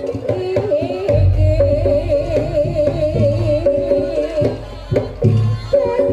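Live Javanese jaranan music: drums beat a repeating rhythm under a held melody with a wavering pitch, with a brief drop in the drumming about four seconds in.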